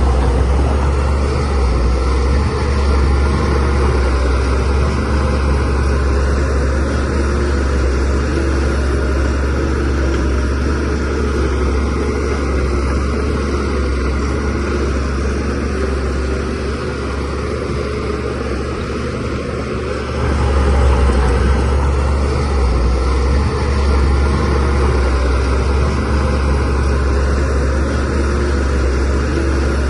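Diesel engine of a DH17C3PRO bulldozer running steadily with a strong low drone, getting louder about two-thirds of the way through.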